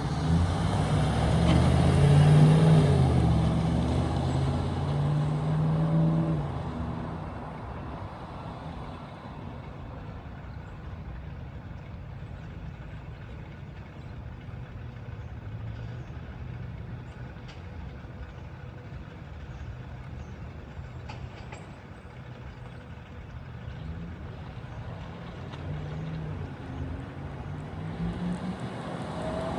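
Pickup truck's gas V8 engine running, loud with its pitch shifting for the first six seconds, then fading to a low steady sound and growing louder again near the end.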